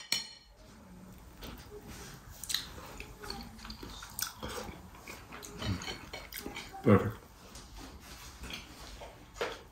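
A man biting into and chewing a baked sprat: close mouth noises and small wet clicks, with two louder short sounds about six and seven seconds in.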